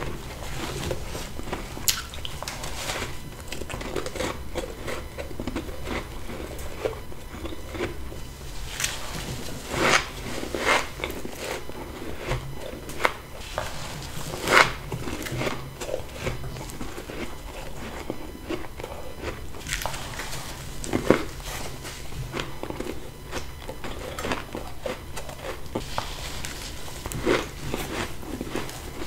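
Close-up bites into humidifier-built freezer frost, a crunchy, crackly ice, bitten into again and again at irregular intervals. The loudest crunches come about halfway through and about two-thirds of the way through.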